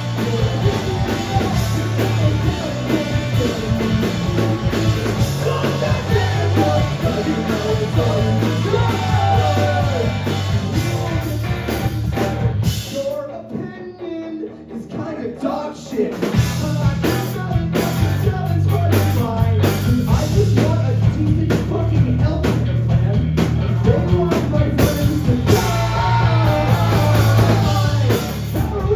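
Live rock band playing loud with drums, guitar, bass and singing. About thirteen seconds in the full band drops out for a few seconds, leaving a quieter passage, then comes crashing back in.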